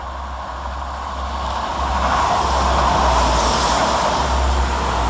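Two coupled Class 172 Turbostar diesel multiple units approaching and running through, a rumble of engines and wheels on rail that grows louder over the first three seconds and then holds.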